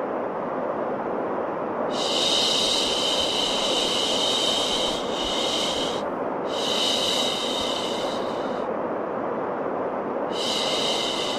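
White noise track for baby sleep: a steady, low rushing hiss. A higher, sharper hiss swells in on top three times, each for two to four seconds.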